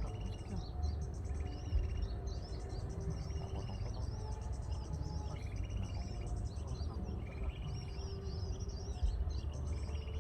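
Small birds calling: rapid high chirps throughout, with short buzzy trills repeating every second or two, over a steady low rumble.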